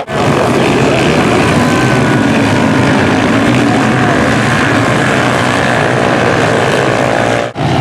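Several small single-cylinder four-stroke pit bikes (KLX110 and CRF110 class) racing together, their engines revving at high speed in one loud, dense, steady sound that breaks off briefly near the end.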